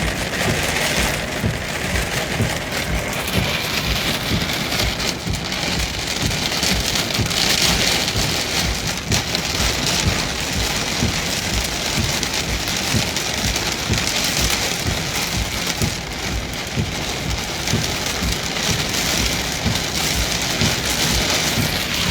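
Heavy thunderstorm rain pouring down, a steady dense hiss, with gusty wind buffeting the microphone.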